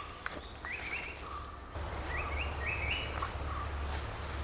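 A bird calling repeatedly in forest: short notes that climb in quick steps, roughly once a second. A single sharp click sounds early, and a low rumble begins a little under two seconds in.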